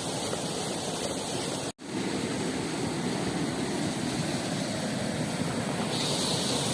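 Steady rushing of river water, broken by a momentary dropout about two seconds in.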